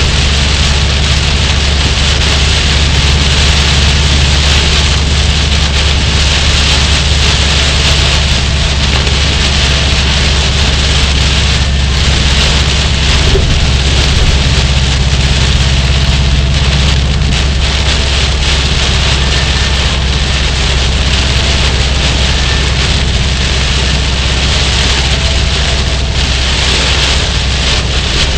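Heavy hurricane rain on a moving car, a steady hiss over a constant low rumble of engine and road noise.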